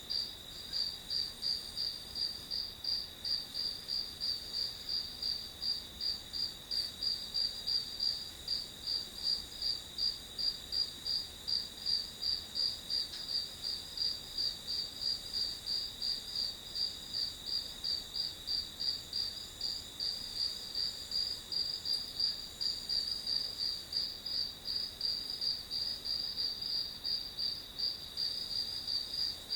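Crickets chirping in a steady, even rhythm of about two to three pulses a second, over a continuous high trill from other insects.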